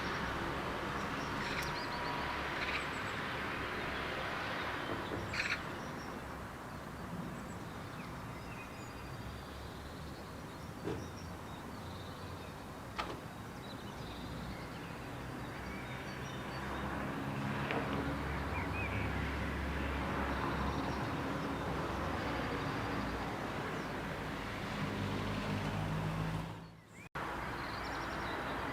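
Outdoor background: a steady low rumble with a few short bird chirps scattered through it. The sound drops out briefly near the end.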